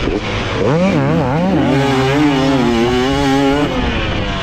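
Motocross dirt bike engine revving: a few quick rises and falls in pitch about half a second in, then a held rev that wavers slightly and drops away near the end, over a steady rush of riding noise.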